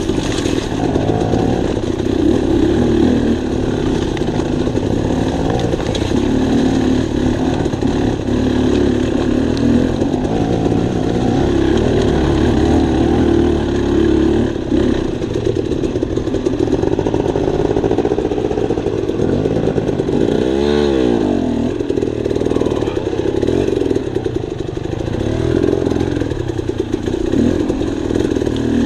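Dirt bike engine running under way, its pitch wavering with the throttle, with one quick rev up and back down about two-thirds of the way through.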